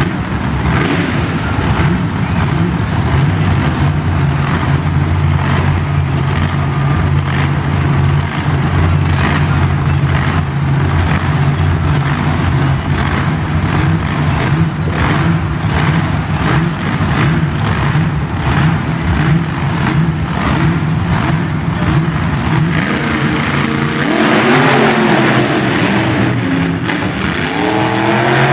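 Monster truck engines running hard in a race: a loud, steady drone with many short sharp cracks through it. Near the end the revs rise and fall repeatedly.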